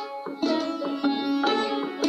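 Sitar playing a gat in Raag Kirvani: a run of quick plucked notes that ring on, with a short dip just after the start before the plucking picks up again.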